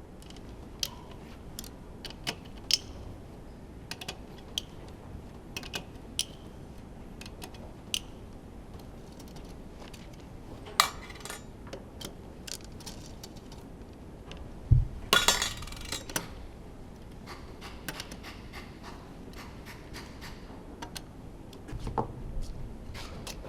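Scattered light metallic clinks and ticks of tools and parts being handled while a Honda F1 engine is disassembled. About two-thirds of the way through there is a low thump, followed by a short rattling clatter of metal.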